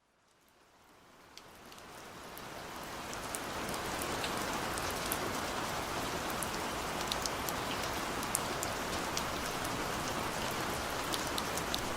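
Steady rain with scattered sharp drop ticks, fading in from silence over the first few seconds and then holding level.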